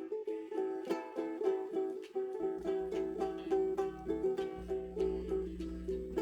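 Acoustic stringed instrument strummed in a steady repeating chord pattern, several strokes a second, with no singing. A low steady hum comes in about two and a half seconds in.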